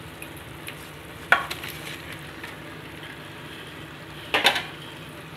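Onion-and-tomato curry base frying in a pan with a steady sizzle while it is stirred, with two loud clatters about a second in and again past four seconds.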